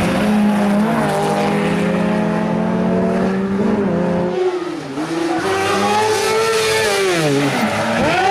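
Rally car engine running hard, held at high revs for about four seconds, then the revs drop sharply, climb again and fall away near the end.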